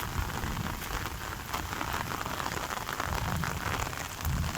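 Heavy rain falling steadily: a dense, even hiss of rain with many close individual drop hits.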